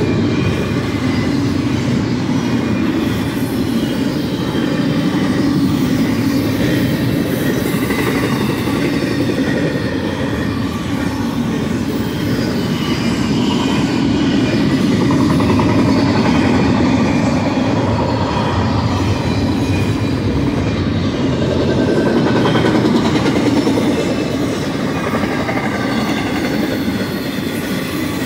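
Double-stack container cars and trailer flatcars of a fast freight train rolling past: a steady rumble and clatter of steel wheels on the rails, with faint thin wheel squeal over it.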